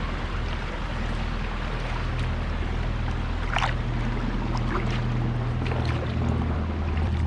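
Low, steady drone of a boat's engine running close by, with a few brief higher sounds over it.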